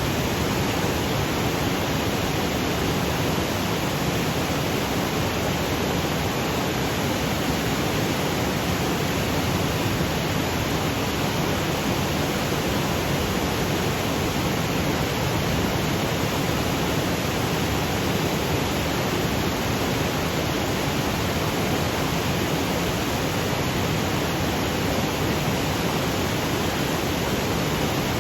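Waterfall cascading over granite boulders: a steady, unbroken rush of water, even from the low rumble up into the hiss.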